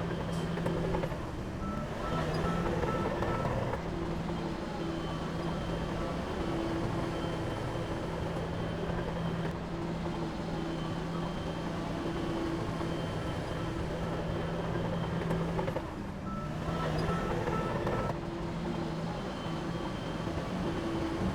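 Heavy diesel engine of earthmoving machinery running steadily, growing louder twice, about two seconds in and again near the sixteen-second mark, each time with a short run of rapid beeps like a reversing alarm.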